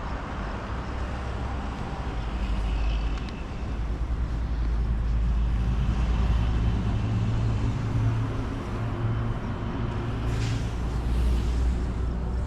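Road traffic: a steady low rumble, with a motor vehicle's engine hum swelling through the middle and a short hiss near the end.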